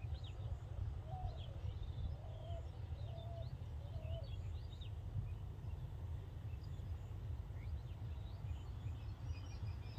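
Wild birds chirping and calling over a steady low outdoor rumble: scattered short high chirps, mostly in the first half, and a run of four lower calls in the first four seconds.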